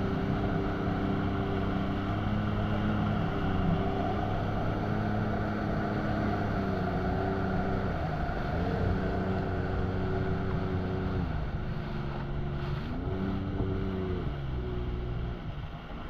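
Jet ski engine running steadily. About eight seconds in, and again around twelve to thirteen seconds in, the revs dip and climb back up. Wind noise on the microphone runs under it.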